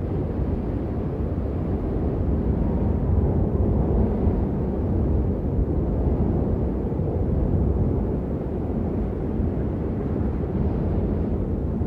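Steady rain as a dense, even rush of noise, deep and dull with little treble and no separate drops standing out.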